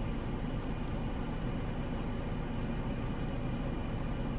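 Steady low hum and rumble of a car, heard from inside its cabin with the engine running.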